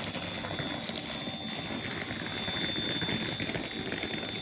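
Electric passenger train standing at the platform, giving a steady hum with a constant high-pitched whine.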